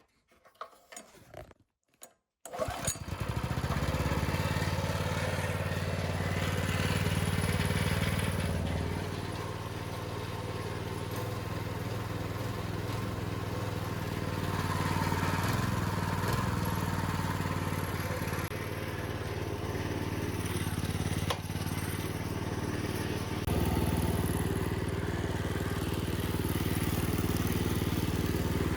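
Minibike's small engine starting about two and a half seconds in after a few faint clicks, then running steadily, its speed easing and picking up slightly now and then.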